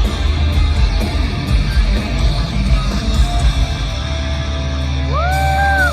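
Live hard-rock band playing loudly, with distorted electric guitar, bass and drums. About four seconds in the drumming drops out under a held low chord, and near the end a singer's voice rises into a long held yell.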